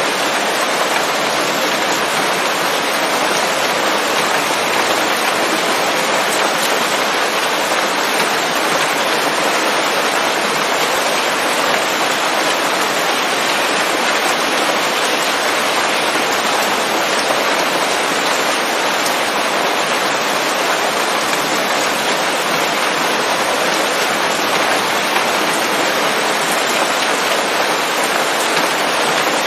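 Steady rain falling on leaves, a dense, even patter with no letup or thunder.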